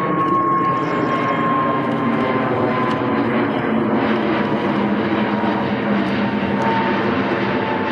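Jet airliner taking off: a loud, steady engine roar with a thin whine that falls slowly in pitch.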